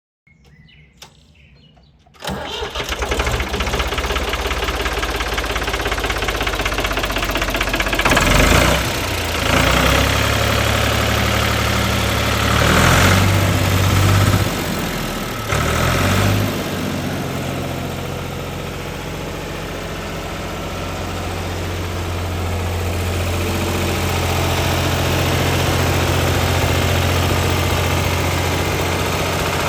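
1968 Ford Force 3000's three-cylinder diesel engine starting promptly about two seconds in, then revved up and down several times before settling to a steady idle.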